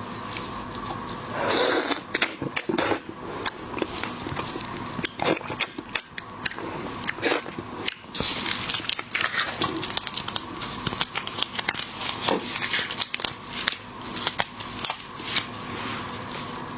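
Close-up eating sounds of shellfish: shells cracking and crunching with chewing, heard as quick, irregular clicks and crackles.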